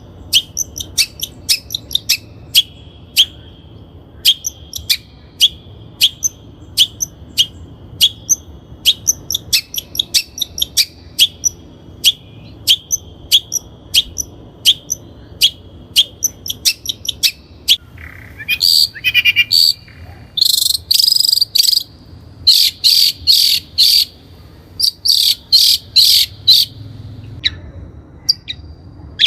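Long-tailed shrike (Lanius schach) calling: a long run of sharp, evenly spaced ticks, about two a second, then from about eighteen seconds in, louder harsh rasping notes in quick bursts.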